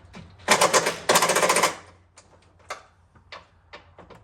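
A cordless power tool hammering in two short bursts, one right after the other, driving in the fasteners of a car's headlight mounting bracket, followed by a few faint clicks.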